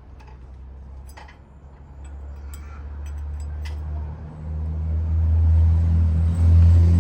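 A vehicle engine rumbling low and getting steadily louder from about two seconds in, as if running up or drawing near. A few light metal clinks sound in the first few seconds.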